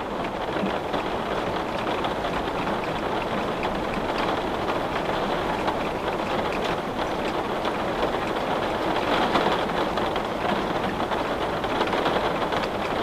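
Steady rain falling against a window: a dense, even hiss with scattered drops ticking, swelling slightly about nine seconds in.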